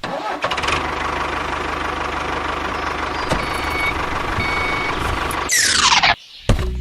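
Engine of a mini construction vehicle running steadily, with two short high beeps around the middle. Near the end a loud descending whoosh cuts across it.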